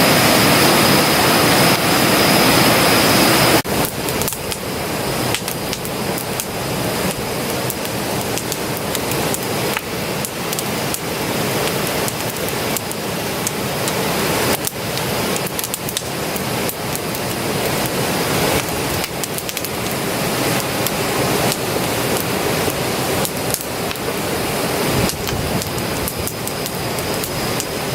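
Wood campfire crackling, with many small sharp pops and snaps over a steady hiss. It follows a loud steady rushing noise with a high whine that cuts off suddenly about three and a half seconds in.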